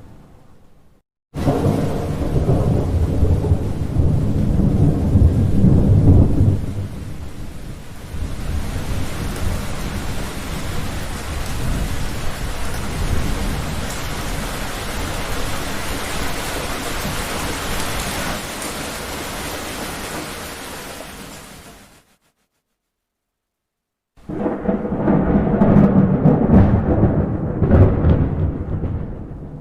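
Thunderstorm sound effects: a loud thunder rumble starts abruptly a second in, then heavy rain hisses steadily and fades out, and after a two-second gap of silence another loud thunder rumble begins.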